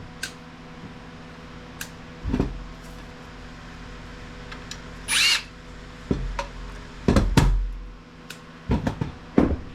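Cordless drill/driver run in several short bursts to back screws out of a small network switch's case, with sharp clicks of the metal parts being handled and a brief high squeal near the middle.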